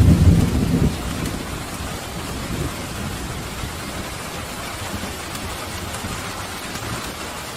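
A rumble of thunder, loudest in the first second and dying away, over steady rain.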